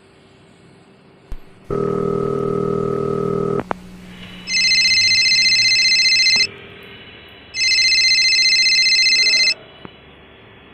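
Telephone ringing with an electronic ring: two rings of about two seconds each, about a second apart, preceded by a shorter, lower buzzing tone.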